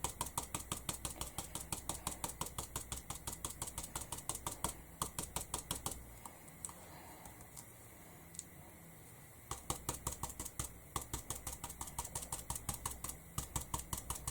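Stippling brush dabbing paint onto a canvas in rapid, even taps, about five a second. The taps pause for a few seconds about six seconds in, then resume.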